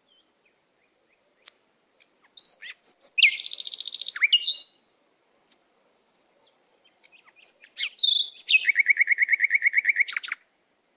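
Birdsong in two phrases of high chirps, the second ending in a fast trill of about ten notes a second that lasts nearly two seconds.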